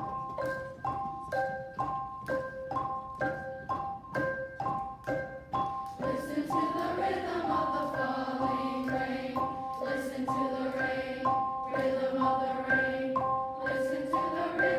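Mallet percussion, glockenspiel or xylophone type, plays a steady repeating pattern of struck, ringing notes in a rain-like rhythm. About six seconds in, singing voices join over it.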